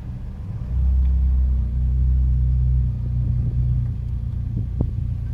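Low steady rumble of a car in motion, engine and road noise heard from inside the cabin, swelling for a couple of seconds about a second in.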